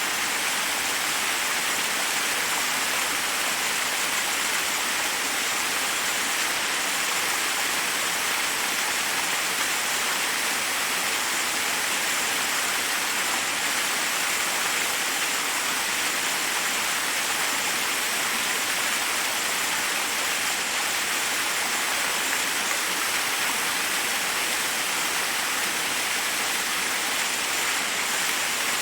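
Waterfall rushing steadily over rocks, an even hiss of falling water with no change.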